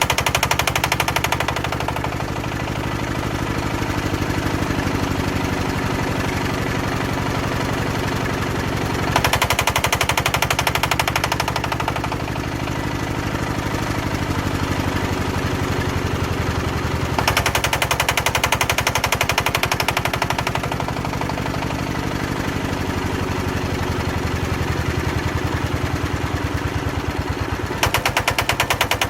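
Old Daedong power tiller's single-cylinder diesel engine running with a rapid, even chugging beat. It is revved up three times for a few seconds each, about nine, seventeen and twenty-eight seconds in.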